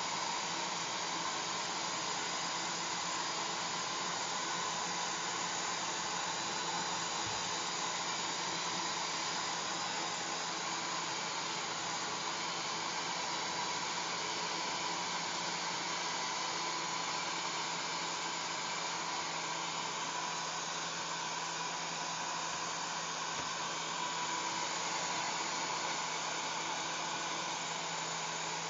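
Hair dryer running steadily, a constant airy rush with a faint low hum and a thin steady tone.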